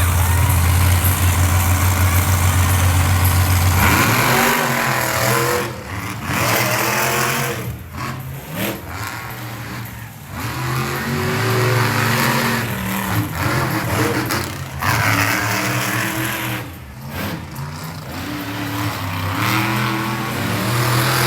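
Monster truck engine at high revs, held steady for about four seconds, then revving up and down over and over with short drops in throttle.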